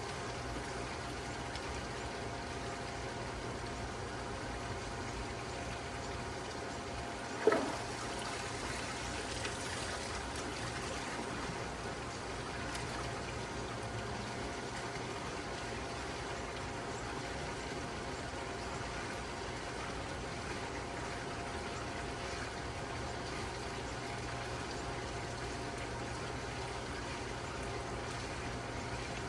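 Water pouring and trickling steadily over a steady low hum. About seven and a half seconds in there is a single brief, sharp chirp that drops quickly in pitch.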